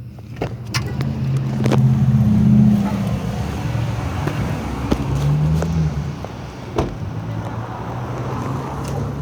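A motor vehicle's engine running close by, a steady low hum that swells and rises in pitch twice, with scattered clicks and knocks.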